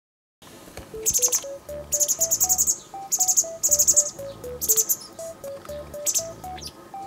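White wagtails chirping: quick runs of high, thin chirps in clusters from about a second in until about five seconds in. Under them runs background music, a simple melody of single plucked-sounding notes stepping up and down.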